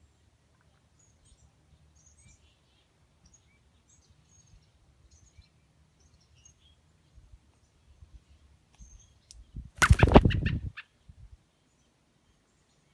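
Faint, scattered short bird chirps. About ten seconds in, a loud burst of noise lasting about a second.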